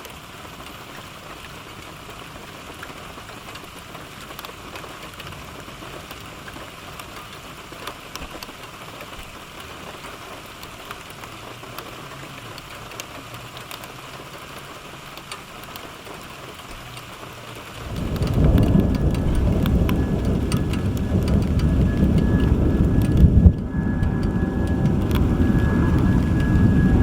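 Steady heavy rain falling. About two-thirds of the way through, a loud low rumble sets in suddenly and keeps going to the end.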